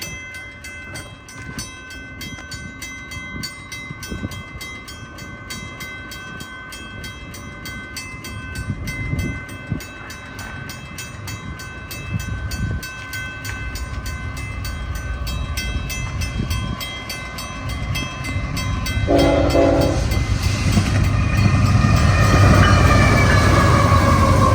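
Level-crossing warning bell ringing with rapid, even strikes while a train's rumble grows louder as it approaches. About three-quarters of the way in the locomotive's horn sounds, and falling tones follow as the train nears the crossing.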